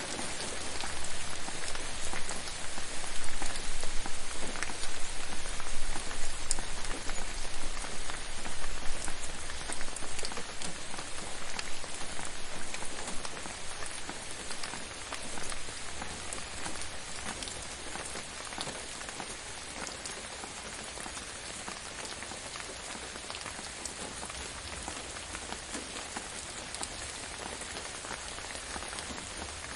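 Steady rain falling, with many separate drops ticking on a surface. It swells louder about a second in and eases back to a lower, even patter about halfway through.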